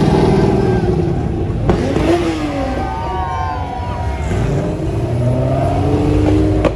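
Car engines revving and accelerating away, their pitch rising and falling as they pull off, with a sharp crack about a second and a half in.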